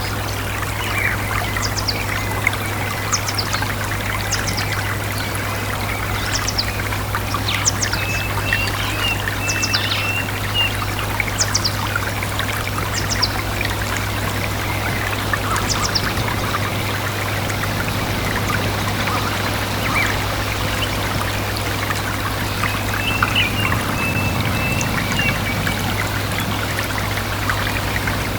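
A small stream trickling and splashing steadily, with birds chirping over it: quick high chirps through the first half, and short runs of chirps about a third of the way in and again near the end.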